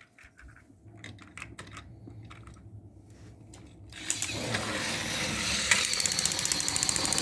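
Small electric motors and plastic gears of battery-powered toy train engines running: light clicking and a low hum at first, then about four seconds in a much louder, fast rattling whir.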